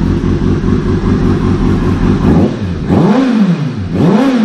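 2005 Kawasaki Ninja ZX-6R 636's inline-four engine idling through a Two Brothers exhaust, then blipped twice near the end, each rev rising and falling back within about a second.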